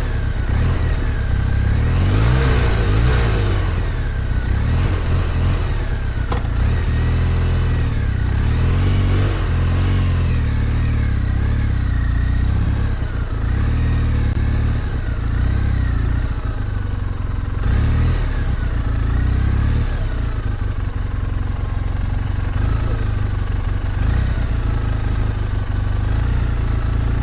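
Motorcycle engine running, its revs rising and falling again and again.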